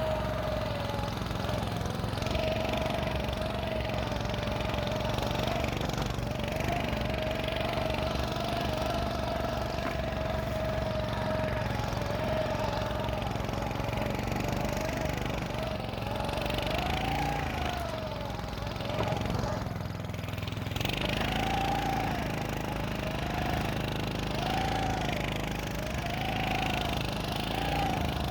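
Small engine of a motorised snow scooter running under way through snow. Its pitch holds fairly steady at first, then rises and falls repeatedly in the second half as the throttle is worked.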